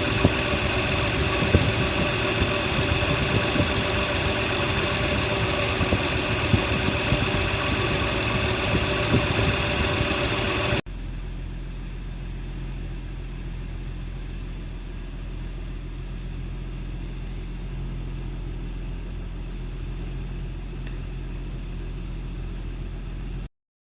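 Car engine idling steadily, run during storage to keep its battery charged. About eleven seconds in, the sound cuts abruptly to a quieter, deeper, smoother idle.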